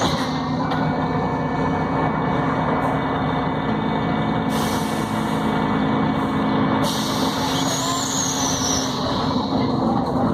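Volvo B7RLE city bus with Voith automatic gearbox running steadily on the road, heard from inside, the engine hum mixed with road and rain noise. A hiss rises in the top end for a couple of seconds about halfway through.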